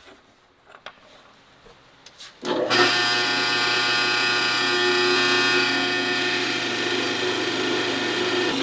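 A few faint clicks, then about two and a half seconds in a woodworking machine starts and runs steadily, with a steady mechanical whine.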